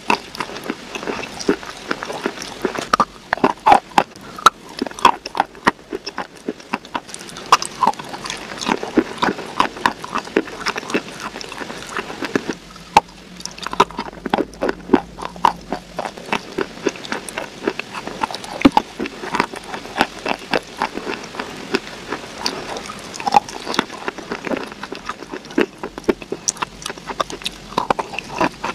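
Close-miked eating: biting and chewing with rapid crunchy crackles and wet mouth noises, briefly pausing about halfway through.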